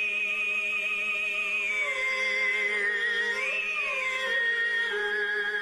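Tuvan chuur, an end-blown flute, played with a hummed throat drone: a steady low drone under a whistling melody with vibrato that climbs about three seconds in and drops back a second later.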